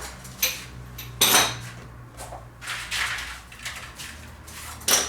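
Metal clanks and clinks of tools and parts being handled, a few separate knocks, the loudest about a second in, over a faint low steady hum.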